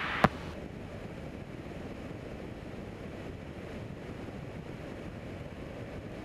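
Steady, muffled drone of a Cessna 172's engine and propeller in the cockpit, after a sharp click just after the start as the radio transmission ends.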